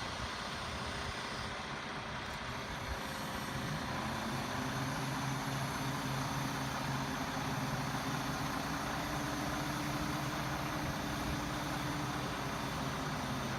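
Truck engine running steadily with an even, low hum that grows stronger about three seconds in.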